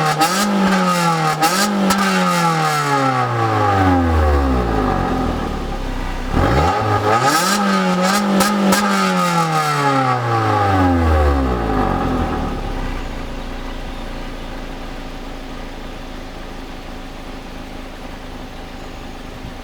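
Suzuki Swift Sport's four-cylinder engine revved in quick blips through a Ragazzon intermediate pipe and the stock rear silencer, the exhaust note rising and falling several times. After a second burst of revs about 7 s in, the revs fall away and it settles to a steady, gradually quieter idle.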